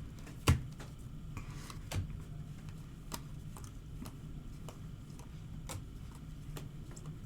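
Trading cards being handled and flipped through: scattered light clicks and taps, a sharper tap about half a second in and another at about two seconds, with brief rustling, over a steady low hum.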